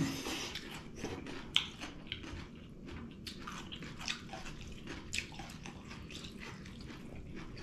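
Chewing and lip-smacking of people eating a rice meal by hand: a string of short, wet mouth clicks.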